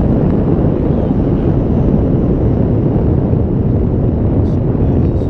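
Steady, loud rumble and wind noise from a moving vehicle, heard from inside as it drives along.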